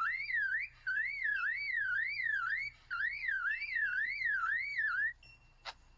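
Superb lyrebird mimicking a car alarm: a loud, wavering electronic-sounding whoop rising and falling about twice a second, in three runs with short breaks, stopping about five seconds in. A sharp click follows near the end.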